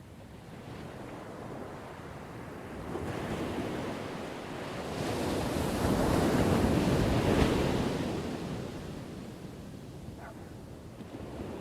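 Ocean waves breaking on a shore: a wave builds from about three seconds in, crashes loudest in the middle, then washes back and fades toward the end.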